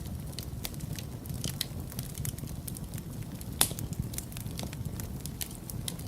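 Wood fire crackling in a fireplace: a steady low rumble of the flames with frequent small sharp crackles and one louder pop a little past halfway.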